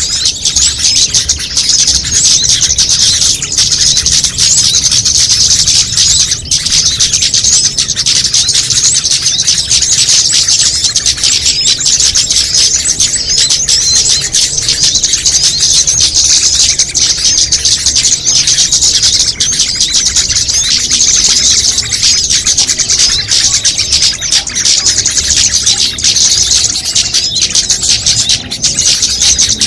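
Dense, unbroken chorus of many small songbirds chirping and trilling rapidly at once: a mixed-species bird-lure call recording played loud and continuously.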